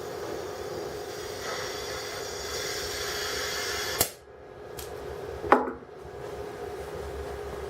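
Steady gas hiss from an oxyhydrogen (HHO) welding torch that stops abruptly with a sharp pop about four seconds in. A second loud, sharp pop with a brief ring follows a second and a half later.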